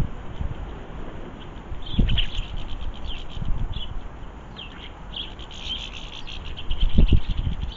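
Small garden songbirds twittering in quick repeated chirps, while strong storm wind gusts on the microphone as low rumbles, twice: about two seconds in and, loudest, near the end.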